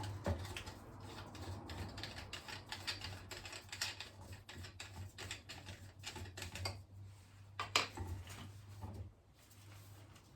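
Irregular light clicks, taps and rattles of hard plastic parts being handled, typical of an electric fan being taken apart, over a steady low hum. A louder click about eight seconds in.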